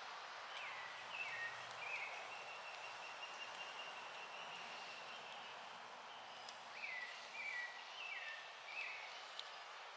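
Outdoor forest ambience: a steady hiss with a bird's high whistled calls. Several short notes fall in pitch near the start and again near the end, and one high note is held for about three seconds in the middle. A few faint clicks are also heard.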